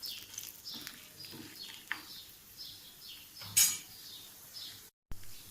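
Metal spatula stirring and scraping urad and chana dal as they fry in oil in a pan, with light clinks and one louder scrape about three and a half seconds in. The sound drops out briefly near the end.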